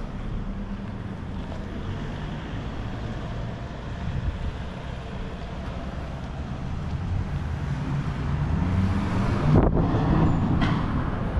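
Street traffic: a motor vehicle's engine running close by, with a steady low hum that grows louder over the last few seconds as the vehicle comes near.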